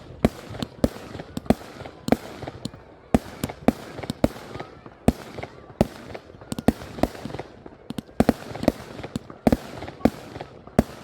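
Fireworks going off in an irregular run of sharp bangs, several a second, some louder and nearer than others, each with a short echoing tail.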